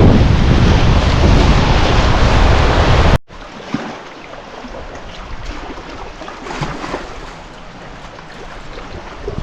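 Loud rushing of river water and wind buffeting the microphone while kayaking. About three seconds in it cuts off abruptly to a much quieter stretch of moving water with a few faint splashes.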